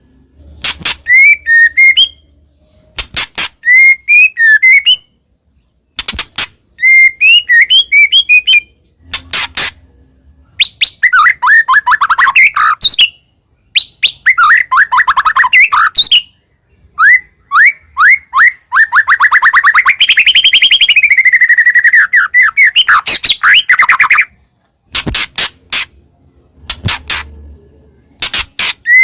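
White-rumped shama (murai batu) singing loudly and persistently: short phrases of sharp clicks and quick rising and falling whistled notes, broken by brief pauses, with a long, very fast trill about two-thirds of the way through and more clicking near the end.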